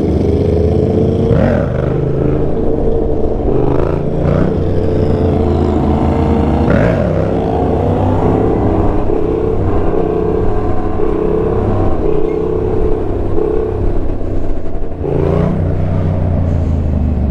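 Motorcycle engine running steadily while riding at cruising speed, with a few brief changes in revs.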